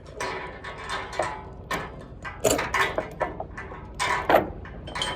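Steel tie-down chain clanking and rattling in a series of separate knocks as the slack chain is wrapped around the tensioned chain.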